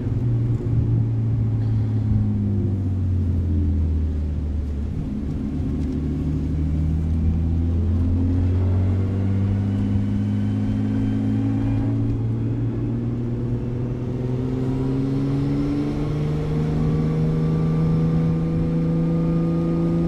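Straight-piped RB20 inline-six of an R32 Skyline GTST running at low speed, a loud, deep exhaust drone. About five seconds in its note drops, then it climbs slowly and steadily in pitch as the car gently gathers speed.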